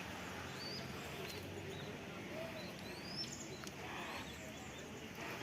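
Wild birds chirping: scattered short, quick notes that sweep up or down, several birds calling over a faint, steady background hiss.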